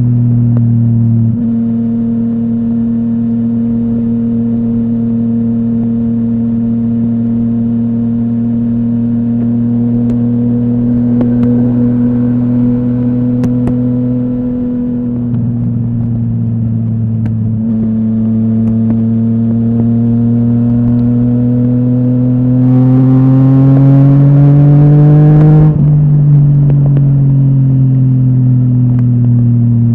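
Yamaha MT-09 inline-three engine through a full Akrapovic exhaust, ridden at steady revs. The pitch dips briefly about halfway through, then climbs under throttle to its loudest about four-fifths of the way in, and drops away as the throttle closes.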